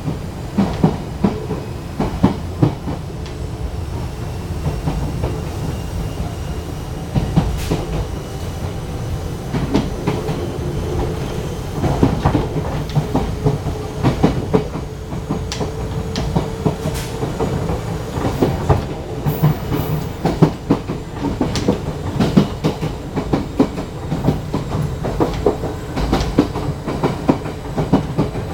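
Fujikyu 1000 series electric train running, heard aboard: wheels clacking over rail joints in irregular clusters over a steady low rumble, with a faint steady whine.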